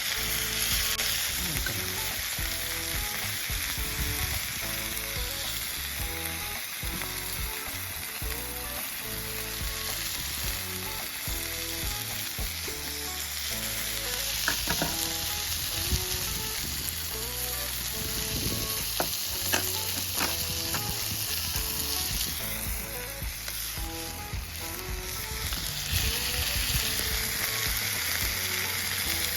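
Food sizzling as it fries, a steady hiss with small crackles. A light background music melody plays over it.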